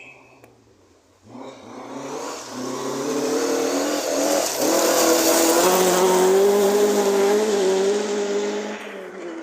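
Rally car engine at high revs, growing loud from about a second in and held near flat out as the car approaches and passes, with a hiss of tyres on the loose forest stage, fading near the end.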